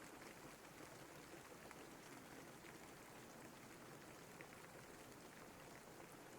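Faint, steady rain falling, with scattered individual drops ticking through the even hiss.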